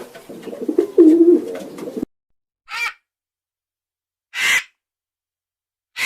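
A pigeon cooing, which cuts off abruptly about two seconds in. Then a crow caws three times, short calls about one and a half seconds apart with silence between.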